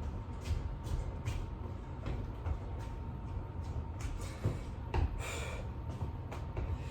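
A person doing burpees: scattered dull thumps of hands and feet landing on the floor, mixed with hard, heavy breathing.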